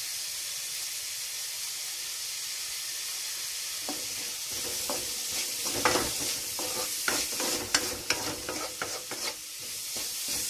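Shallots, green chillies and curry leaves sizzling in hot oil in a metal kadai. From about four seconds in, a spatula scrapes and stirs them against the pan in quick, irregular strokes.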